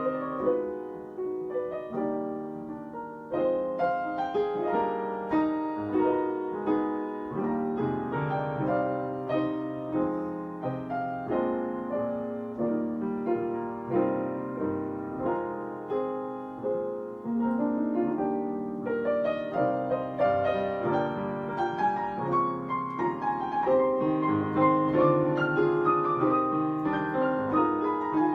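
Piano playing a continuous piece of struck notes and chords.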